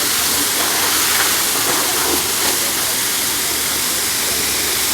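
Steady hiss of water spraying from a car-wash jet, loud and unbroken.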